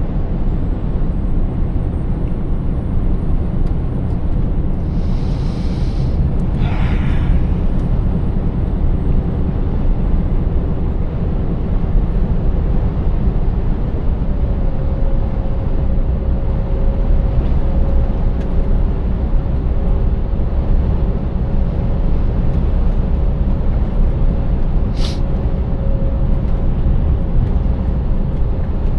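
Scania 590S V8 truck driving steadily, a continuous low rumble of engine and road. There are two brief hisses, one about six seconds in and a sharper one near the end.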